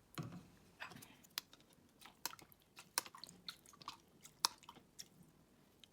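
Faint, irregular light clicks and taps of a tablespoon knocking against a bowl and containers while tablespoons of water are measured out for a sauce, a few soft knocks about a second in.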